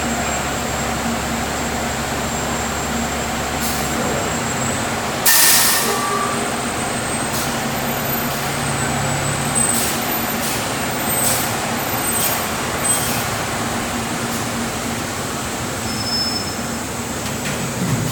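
Fire truck's engine running as the truck pulls out, with a short loud hiss of its air brakes releasing about five seconds in, then the engine running on with a few light clicks.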